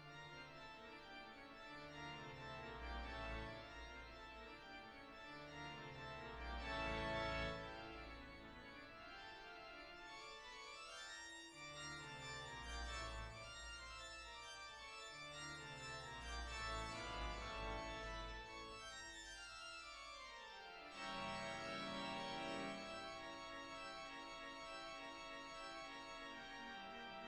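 Background music of sustained organ-like keyboard chords over a recurring deep bass pulse.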